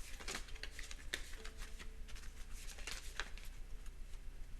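Tarot cards being shuffled and handled: a run of soft, quick clicks and rustles.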